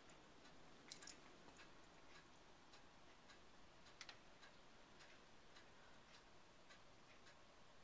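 Near silence with faint ticking, a few ticks a second, and two sharper clicks about a second in and about four seconds in.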